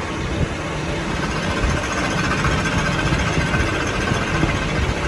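A machine running steadily with a rapid, continuous low rattle.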